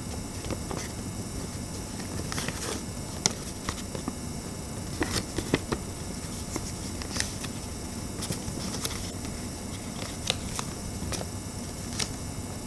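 Origami paper rustling and crinkling as it is folded and creased, in irregular sharp crackles over a steady hiss.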